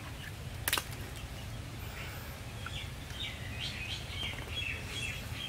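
Birds chirping in short high notes, busiest in the second half, over a steady low rumble; a single sharp click about a second in.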